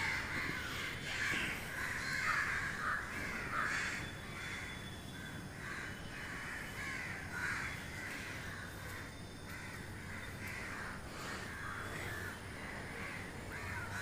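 Birds calling over and over, short harsh calls following one another closely.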